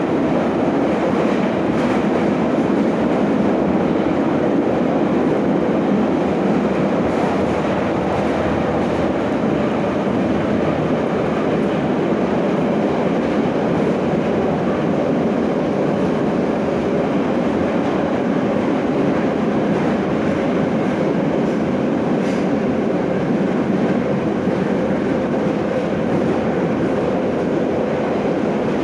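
Moscow Metro 81-717/714 ('Nomernoy') train running between stations, heard from inside the car: a steady, loud rumble of wheels and running gear.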